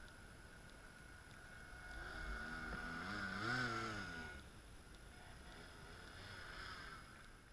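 Radio-controlled model boat's motor speeding up and easing back, its whine rising in pitch and loudness to a peak at about the middle and then falling away, over a faint steady high whine.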